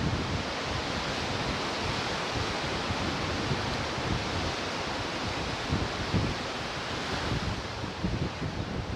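Ocean surf washing steadily onto the shore, a continuous rushing hiss, with wind buffeting the microphone in low, irregular rumbles.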